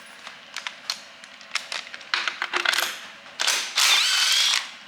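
Ratchet wrench and spark plug socket clicking and rattling as a spark plug is undone from a Lotus engine's cylinder head, with a longer rasping stretch about three and a half seconds in.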